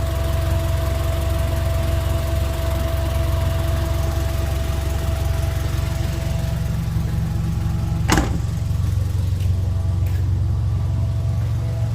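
Nissan Vanette's Z20S four-cylinder engine running steadily at idle, with a single sharp click about eight seconds in.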